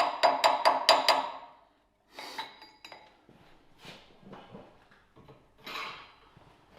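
Fast, evenly spaced ringing strikes, about four a second, that stop about a second in, followed by faint scattered metallic clinks and scraping.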